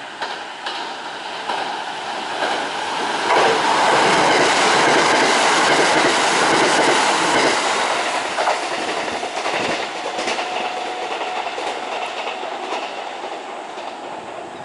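A train passing by, with the rumble and clatter of its wheels on the rail joints swelling to a peak about four seconds in, then slowly fading.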